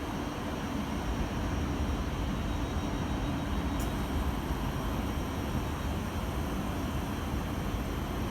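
A train running steadily at the station: an even low rumble with a faint steady hum, rising a little about a second in.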